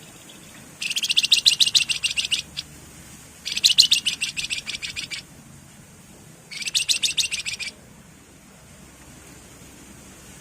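Javan fulvetta (wergan jawa, kept as 'flamboyan') giving three bursts of rapid, rattling trilled song notes, each about a second and a half long, with short pauses between them.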